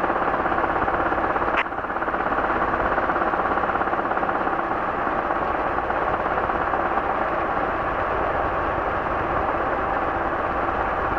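Robinson R22 helicopter's piston engine and rotor heard inside the cabin, a steady loud drone with a fast, even pulsing. A brief sharp click comes about a second and a half in.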